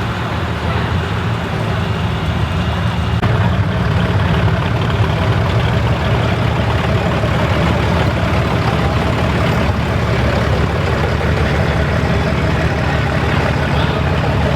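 A vehicle engine idling steadily, a low continuous rumble that grows slightly louder about three seconds in.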